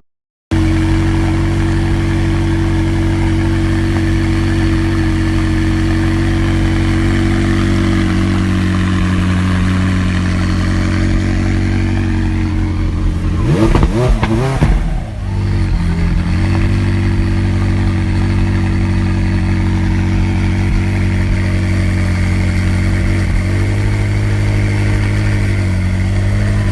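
McLaren sports car engine idling steadily, revved once about halfway through with a quick rise and fall in pitch, then settling back to idle.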